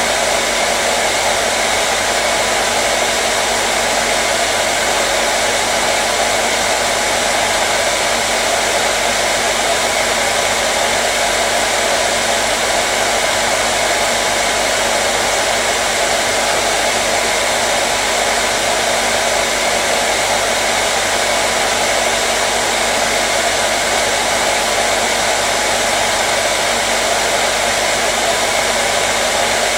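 Hair dryer running steadily: an even rush of blown air with a faint motor hum underneath, unchanging throughout.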